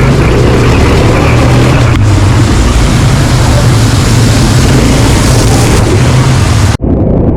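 Quad bike engine running steadily under way, a low hum under a loud rushing noise. Near the end the sound cuts out for an instant and comes back duller.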